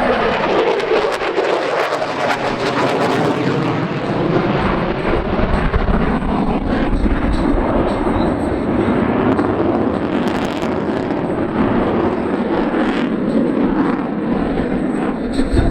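Loud, steady jet noise from the F-22 Raptor's twin F119 turbofan engines.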